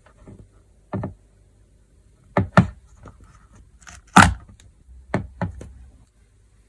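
Slime being pressed and poked by hand, giving about seven sharp pops and knocks; the loudest comes about four seconds in.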